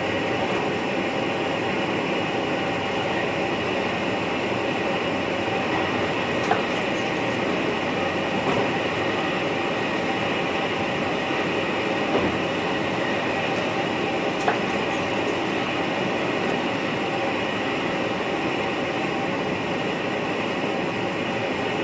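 Steady running noise inside the driver's cab of an NS VIRM double-deck electric train, with a few faint clicks spread through it.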